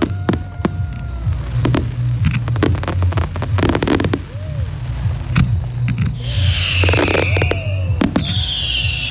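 Fireworks display: aerial shells bursting in a rapid, irregular series of sharp bangs and crackles. Twice in the second half a high, falling, hissing whine sounds over the bangs.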